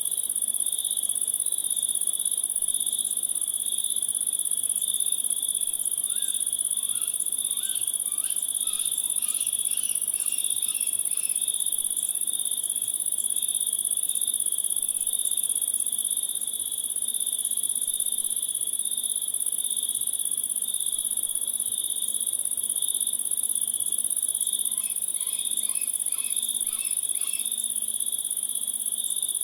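Cricket chorus: a steady high-pitched trill with a pulsing lower trill beneath it. Two short runs of quick chirps come in, about seven seconds in and again near the end.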